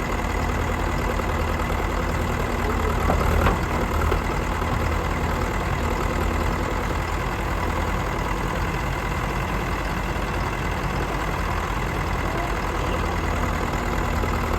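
Heavy machinery's diesel engine idling steadily, with a couple of short knocks about three to four seconds in.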